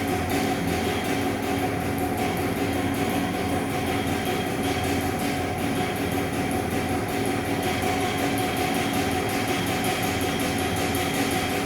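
Steady low mechanical rumble and hum carrying a fast, even pulse of about five beats a second, with no separate bangs standing out. It is a structure-borne machine-like noise of the kind that is felt as well as heard several floors away.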